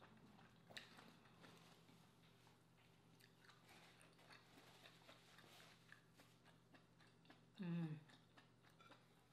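Faint close-up eating sounds: quiet chewing and small clicks and crackles of hands and napkin. About eight seconds in comes a short, louder low vocal sound that falls in pitch, from the eater's throat.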